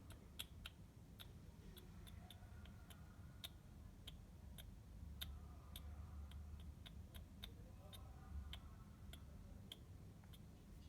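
Faint, irregular clicking, a few clicks a second, over quiet room tone.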